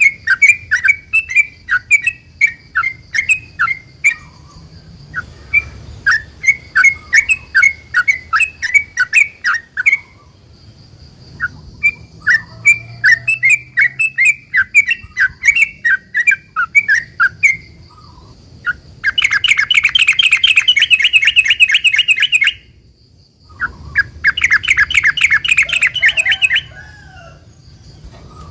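Yellow-vented bulbul (trucukan) singing: quick runs of short bubbly notes, about two a second, then two long rapid trills, the 'ropel' that bird-keepers prize and play to set other trucuk singing in reply.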